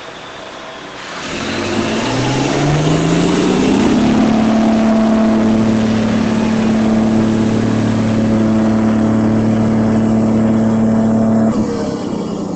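A remote-control model vehicle's motor spinning up, rising in pitch over about three seconds, then holding a steady drone until it drops off near the end.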